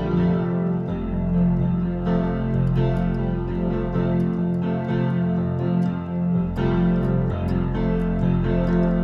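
Instrumental church music: electric piano or keyboard chords with some guitar, a gentle prelude with chords changing every second or two.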